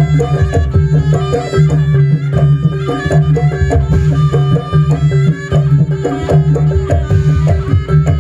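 Jaranan buto ensemble playing live: fast, dense hand-drum strokes over a steady low drone and a held tone, with a melody line running on top.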